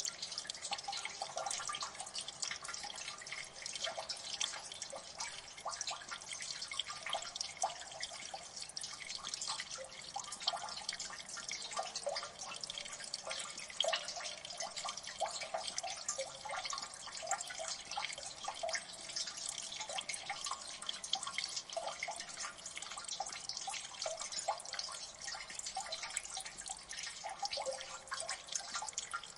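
Water dripping in a gully: many drops falling at once and irregularly, over a steady trickle of running water.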